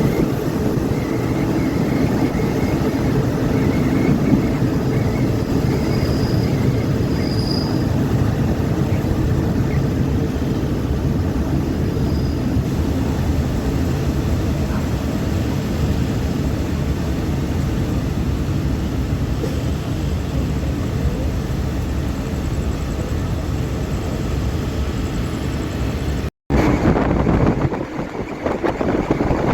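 Steady rumble of a moving passenger train heard on board, its wheels running on the rails. A sudden break near the end, after which the noise comes back louder and more uneven.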